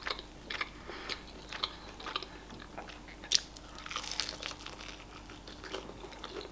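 Close-up eating sounds of spicy breaded fried chicken wings: quiet wet chewing with small crunches of the crispy coating, and a sharper crunchy bite a little past three seconds in.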